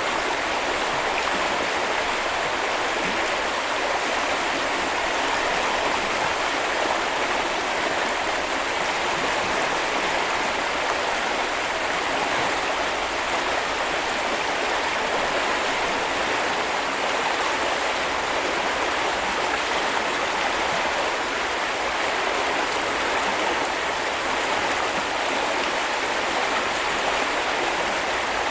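Shallow river or brook flowing steadily, a continuous rushing and splashing of water with no change throughout.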